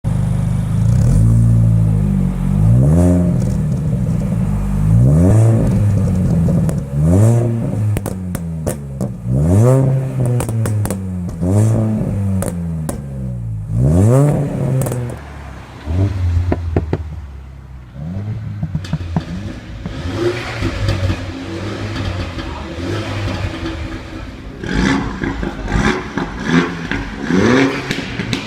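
Mini Cooper S R53's supercharged 1.6-litre four-cylinder with a Minigarage full exhaust, revved in short blips while stationary. Each rev rises and falls, about one every two seconds, before the engine settles back to idle about halfway through, then quicker blips come near the end.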